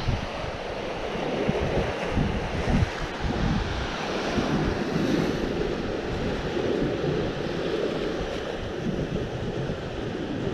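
Sea waves washing on the shore, with gusts of wind buffeting the microphone.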